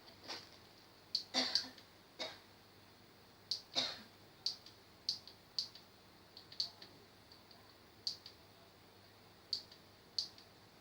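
Irregular light clicks and ticks, over a dozen short sharp ones, a few in quick pairs, the strongest about a second and a half in and again near four seconds.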